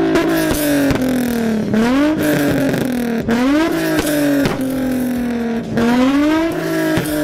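2004 Nissan 350Z's V6 with test pipes in place of the catalytic converters, revved in neutral: three quick blips that climb sharply and fall back slowly toward idle. Sharp pops and crackles come from the exhaust as the revs drop.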